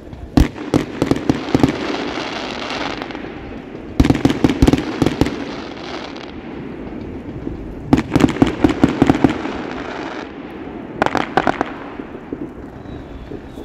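Fireworks going off overhead: four volleys of rapid bangs, roughly four seconds apart, each trailing off before the next.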